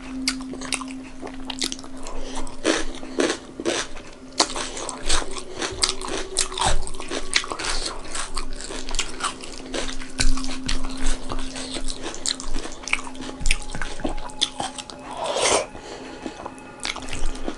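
Close-up eating sounds of a person chewing rice, daal and vegetables eaten by hand: many quick mouth clicks, smacks and crunches. A steady low hum sits under it and stops about three-quarters of the way through.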